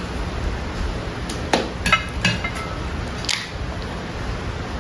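Dishes and cutlery clinking: a handful of separate light knocks, some with a short ring, over a steady low background hum.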